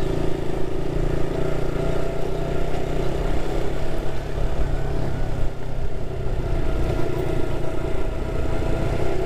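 Single-cylinder motorcycle engine running at a steady cruising speed while riding, with wind rumble on the mic.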